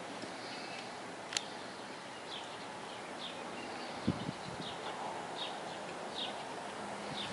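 Birds chirping with short, high calls repeated every second or so over a steady background hiss. A single sharp click comes about a second and a half in, and a low thump about four seconds in.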